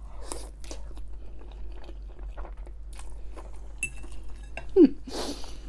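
Close-miked chewing and wet mouth sounds of someone eating, with many small scattered clicks. Near the end comes a brief falling voice sound, then a short breathy rush.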